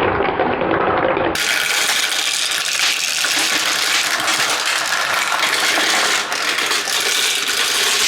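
Balls rolling and rattling through clear plastic marble-run track, a dense, continuous clatter. About a second and a half in, it abruptly turns brighter and fuller.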